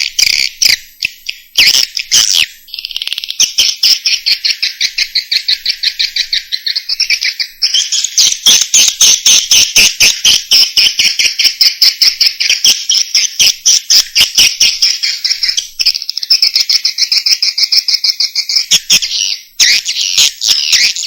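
Edible-nest swiftlet calls from a recorded lure track for swiftlet houses: long trains of rapid, chattering chirps, about five a second, with brief breaks between the trains.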